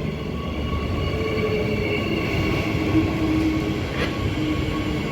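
Transperth electric multiple-unit train running past, a steady rumble with a whine of several held tones over it.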